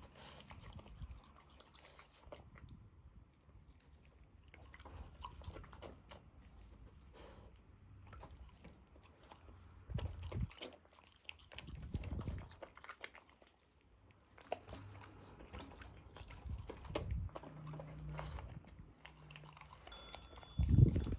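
A French bulldog chewing and crunching its food in irregular bites, with a few louder crunches about ten and twelve seconds in and again near the end.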